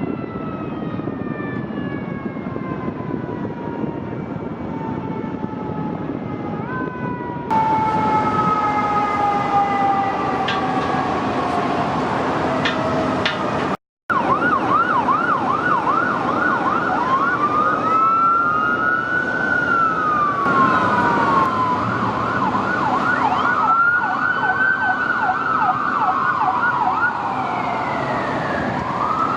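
Fire engine siren with a long tone that falls slowly over many seconds. After a cut about halfway through, an ambulance's electronic siren alternates between a fast yelp and a slower wail.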